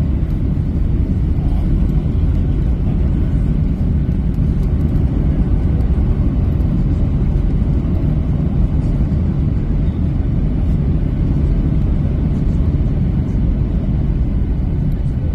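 Steady, loud low rumble heard inside a Boeing jet airliner's cabin, from the engines and airframe as the plane comes in to land.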